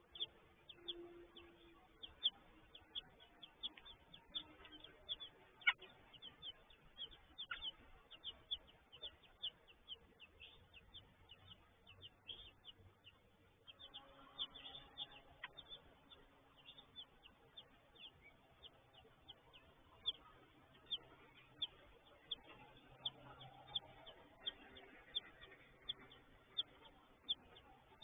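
Small birds chirping: short, high, sharp chirps repeating a few times a second throughout.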